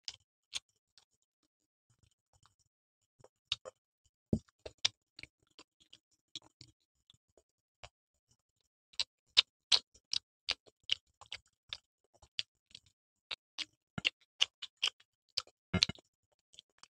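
Close-miked eating sounds of two people chewing pizza: irregular short mouth clicks and smacks, sparse at first and coming thick and fast in the second half, with a couple of fuller bite or knock sounds.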